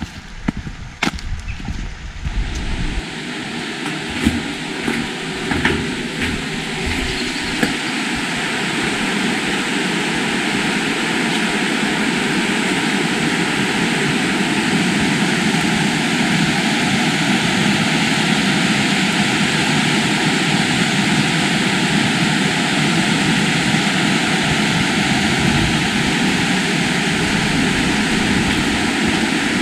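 A few scattered footsteps at first, then the steady rush of fast-flowing river water. It grows louder over the first ten seconds or so and then holds steady.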